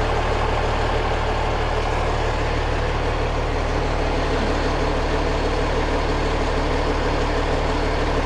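Ladder fire truck's engine idling steadily with a low, even hum.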